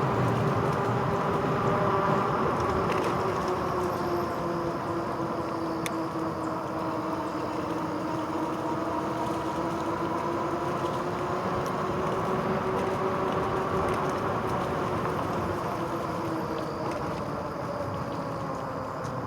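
RadRover 5 e-bike's rear hub motor whining steadily, its pitch drifting slowly up and down with speed, over the rumble of fat tyres rolling along a trail.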